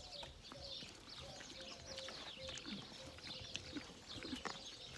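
Small birds chirping over and over in short, high, downward-sliding chirps, with a few faint clicks among them.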